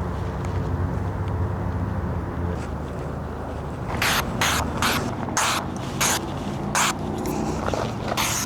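A low steady rumble, then about ten short hissing sprays from an aerosol can in the second half, each lasting under half a second, likely sprayed onto freshly shaved legs.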